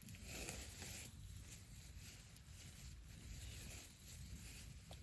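Campfire burning faintly, with a soft steady hiss and scattered small crackles and pops.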